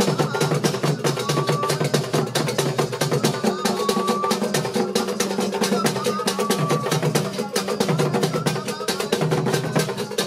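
A drum ensemble playing a fast, dense, steady rhythm. A short high note comes back every two to three seconds over the drumming.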